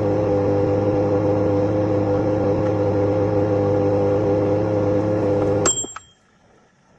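Microwave oven running with a steady hum, which cuts off abruptly about five and a half seconds in with a sharp click and a brief high tone.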